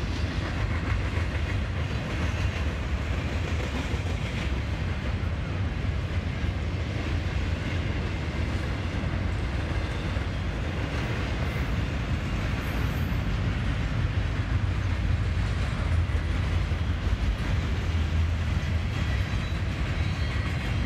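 Norfolk Southern intermodal freight train rolling past: a steady rumble of railcars and wheels running on the rails.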